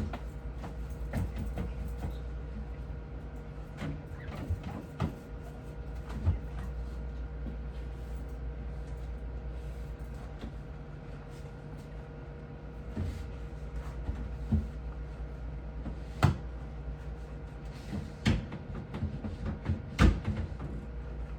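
Scattered knocks, clicks and clatters of things being handled and set down, with the sharpest knocks about two thirds of the way through and near the end, over a steady low hum.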